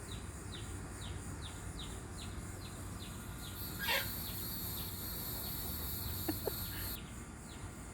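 Laying hens clucking now and then, with a brief louder call about four seconds in, over a steady run of short high chirps a few times a second. A high hiss joins from about four to seven seconds.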